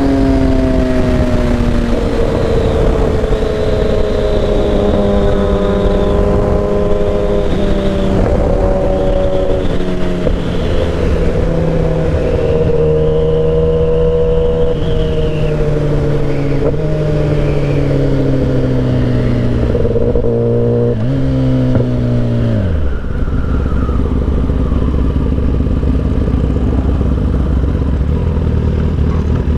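Motorcycle engine slowing down, its pitch falling gradually with a few small steps. About 21 s in there is a brief blip of revs, then the pitch drops sharply to a low steady idle. Wind noise runs underneath.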